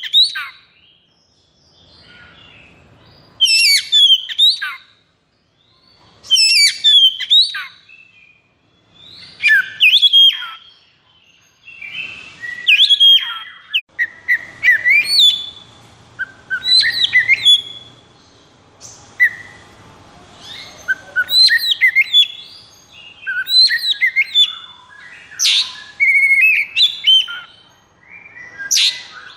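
Oriental magpie-robin (kacer) song in the fast, aggressive 'konslet' style: short bursts of rapid sweeping whistles and trills, about one phrase every three seconds, becoming near-continuous in the second half.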